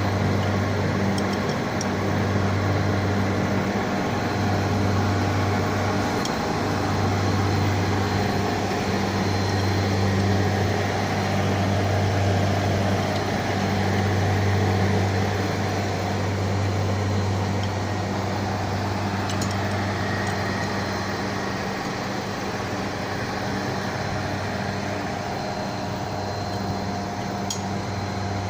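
Steady low hum of electric-motor-driven machinery running, a constant drone with a few faint ticks.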